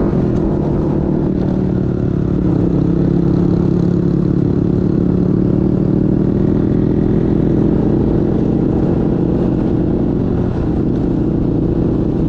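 Motorcycle engine running at a steady speed while riding on the road, heard from a helmet-mounted camera.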